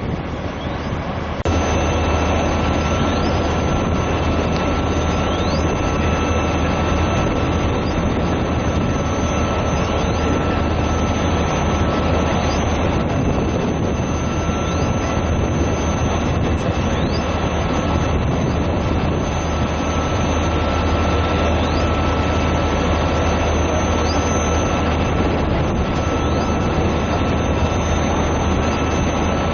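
Heavy diesel engine running steadily: a constant low rumble with a fixed high whine over it, unchanging for the whole stretch.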